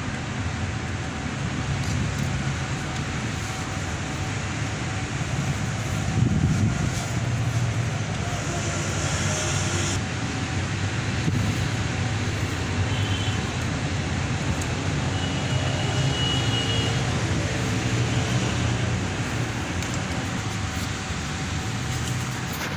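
Steady low mechanical hum under a wash of background noise, with a short high hiss about nine seconds in.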